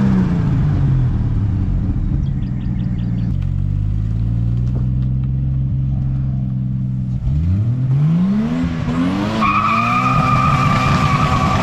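Nissan R32 Skyline GTS-t's turbocharged RB20 straight-six on the move: revs fall, hold steady for a few seconds, then climb again under acceleration. A steady high squeal joins the engine near the end.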